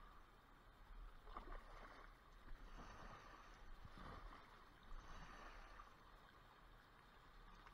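Faint, regular swishes of a kayak paddle dipping into the water, about one stroke a second.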